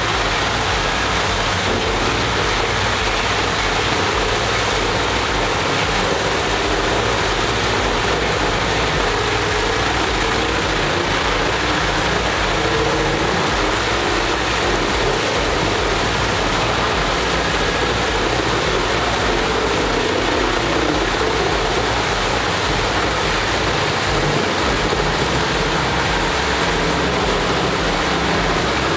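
Rotochopper B66 grinder running steadily under load: its 700-horsepower engine and the material being ground into chips make one dense, continuous noise.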